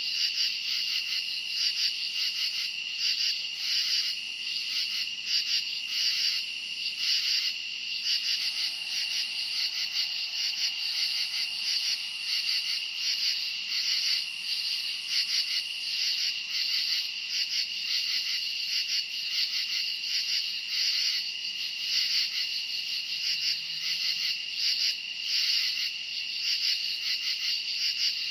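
Night chorus of crickets chirping without pause: a steady high trill with rapid pulsing chirps layered over it.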